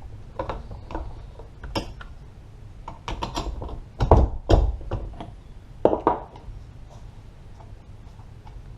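Scattered clicks and knocks of tools and metal parts being handled while the spark plug is taken out of a Stihl 025 chainsaw, with a few louder knocks about four and six seconds in.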